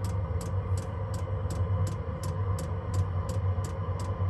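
Chinese diesel air heater running: its fuel dosing pump clicks about three times a second over the steady low hum of the heater's blower.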